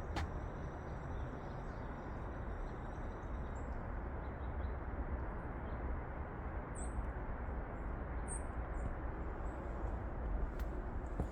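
Steady low outdoor rumble with a few short, high bird chirps, two of them clearest about seven and eight and a half seconds in.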